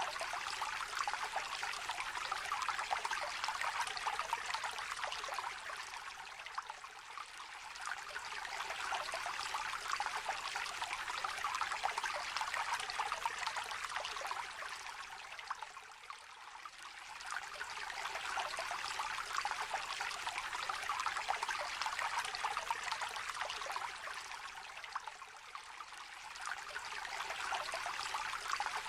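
A small, shallow river trickling and babbling over stones: a steady splashing rush that swells and eases a few times.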